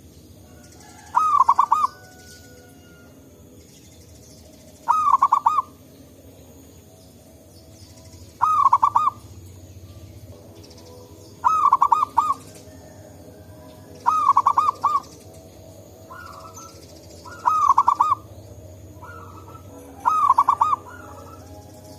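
Zebra dove (perkutut) cooing: a short, rapid, pulsed coo phrase repeated seven times, about every three seconds, with a fainter coo slipped in twice in the second half. Faint high chirping runs underneath.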